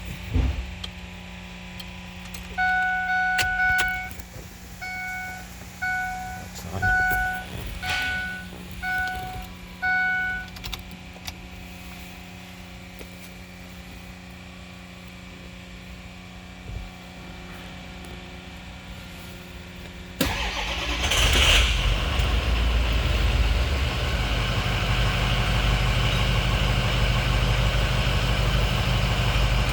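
A fire truck's diesel engine is started. First a warning tone sounds inside the cab, one long beep and then six short ones. About twenty seconds in, the engine cranks, catches almost at once and settles into a steady idle.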